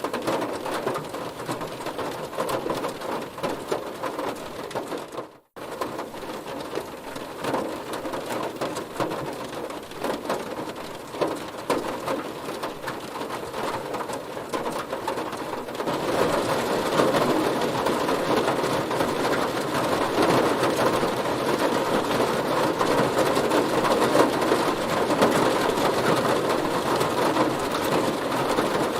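Heavy rain pattering on a car's body in a dense, steady crackle. It cuts out for a split second about five seconds in, then comes back, and turns louder and heavier from about halfway through.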